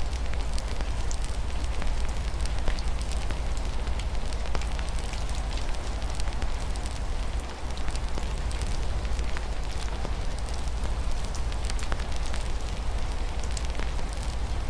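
Wood fire crackling, with frequent small sharp pops and snaps over a steady hiss of rain and a low steady rumble underneath.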